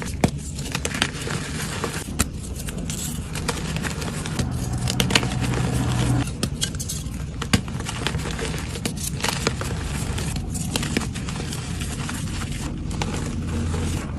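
Gym chalk being crushed and crumbled, a run of crisp crunching and crackling with many sharp snaps.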